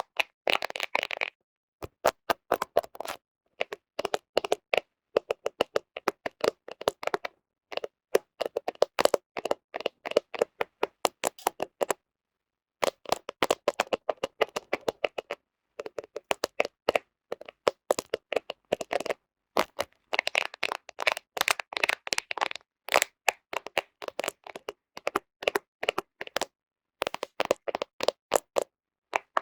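Fingernails rapidly tapping and scratching on a camera, a quick run of sharp clicks in bursts with short pauses and one longer pause about twelve seconds in.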